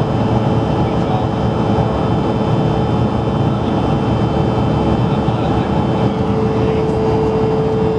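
Cabin noise of an Embraer ERJ-170 jet airliner: a steady, even roar of airflow and twin turbofan engines, with a constant hum and faint high whines from the engines.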